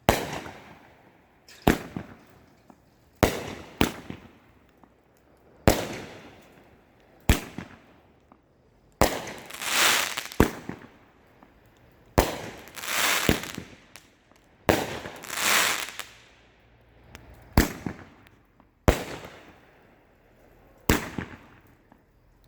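A consumer fireworks cake, a 12-shot finale box, firing: a sharp report every second or two, with three longer hissing stretches among them.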